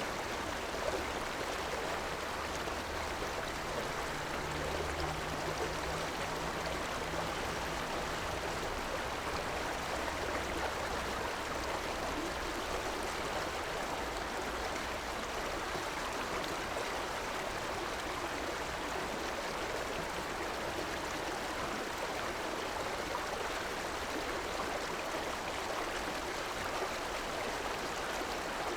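River water flowing steadily, a continuous even rush. A faint low hum sits under it from about three to ten seconds in.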